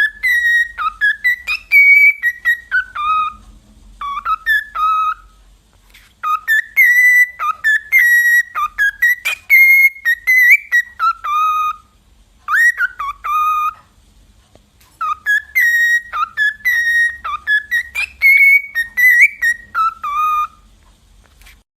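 A pet bird whistling a tune, quick melodic phrases of clear notes that step and slide between higher and lower pitches, broken by three short pauses.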